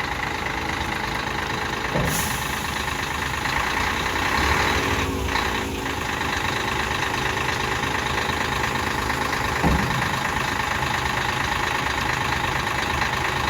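Scania R124 tipper truck's diesel engine idling steadily. There is a brief sharp hiss or click about two seconds in and a short knock near the end.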